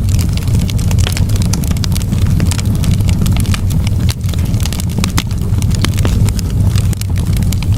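Campfire burning, with frequent irregular wood crackles and pops over a steady low rumble.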